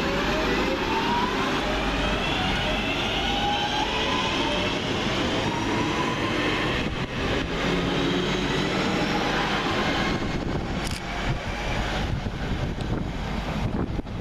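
Class 323 electric multiple unit pulling away, its traction motors whining in several tones that rise in pitch as it gathers speed. In the last few seconds the whine gives way to gusty wind on the microphone.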